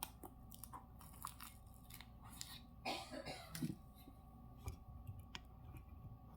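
A person chewing a mouthful of toasted sub sandwich close to the microphone, with scattered small wet clicks and crunches and a brief louder mouth noise about three seconds in.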